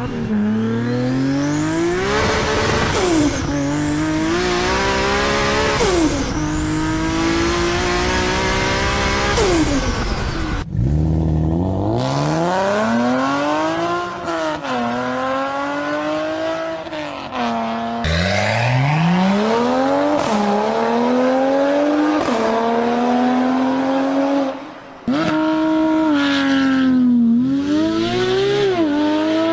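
Six-cylinder sports car engines accelerating hard through the gears in a run of separate clips. The pitch climbs and then falls back at each upshift, and the sound cuts abruptly to a new car twice, about a third of the way in and again near the end.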